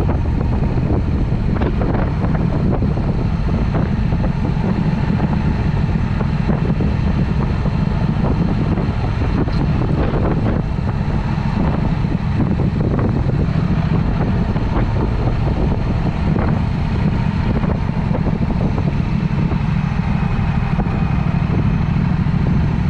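Triumph Speed Twin with a Vance & Hines exhaust running steadily while being ridden, with wind rushing over the microphone.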